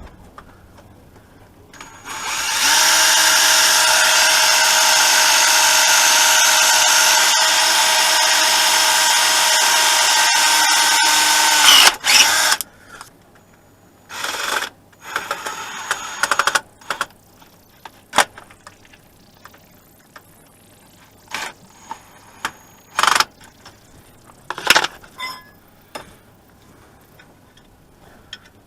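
Power drill running at a steady speed for about ten seconds, drilling out the broken remains of a crankshaft sensor, then stopping sharply. A few short clatters and clicks follow.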